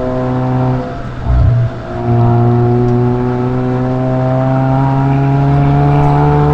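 Suzuki Swift Sport ZC33S's 1.4-litre turbocharged four-cylinder running through a SACLAM aftermarket exhaust, heard from outside the car. The steady exhaust note breaks about a second in with a short low thud, then its pitch climbs slowly as the engine pulls.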